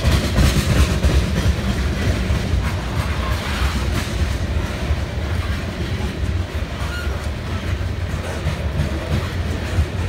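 Cars of a BNSF coal train rolling past, with a steady, loud rumble and the clatter of wheels over the rails.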